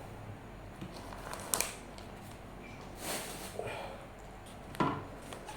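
Food and its wrapping being handled: scattered soft rustles and small clicks, with a longer rustle about three seconds in.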